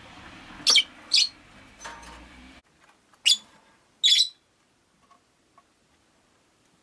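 Rosy-faced lovebirds giving four short, shrill chirps in two quick pairs, about a second apart and then about three seconds in. A low background rumble under the first pair cuts off suddenly.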